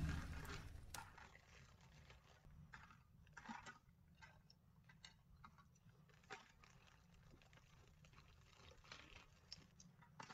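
Near silence with a few faint, scattered clicks, as of small river stones being set into the fountain's plastic basin.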